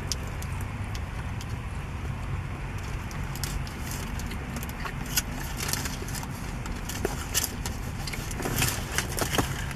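Close-up chewing of a mouthful of burrito, with wet mouth clicks and the crinkle of its foil wrapper, over a steady low hum in a parked car's cabin.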